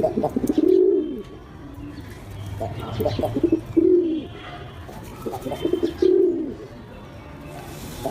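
Domestic pigeons cooing: three low, arched coos, each starting with a short stuttering lead-in.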